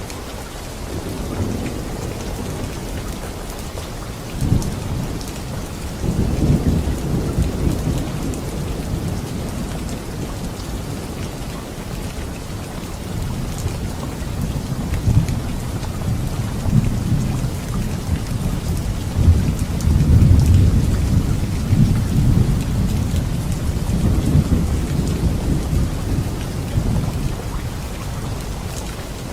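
Steady heavy rain with thunder rumbling low several times. The rolls swell about four, six and fifteen seconds in, and the longest and loudest comes around twenty seconds in.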